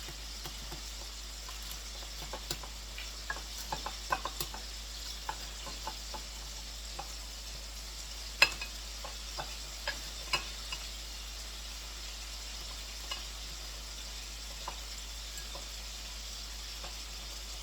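Chicken frying in hot oil, sizzling steadily with scattered crackles and pops; a sharp click about eight seconds in.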